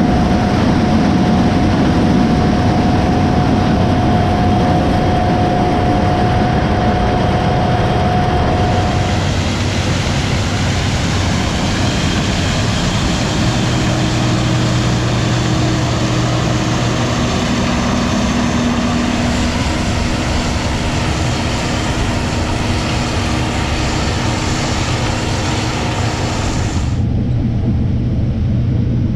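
Heavy diesel harvest machinery running steadily under load: a dense, loud rush of engine and machine noise over a constant low engine hum. The sound changes character about nine seconds in and again near the end.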